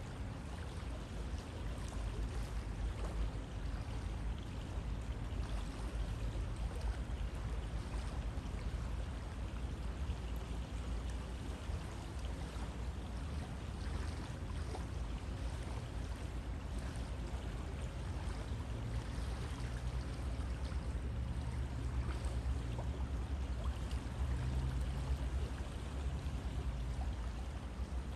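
River water flowing and burbling over stones, a steady rushing with a deep low rumble under it.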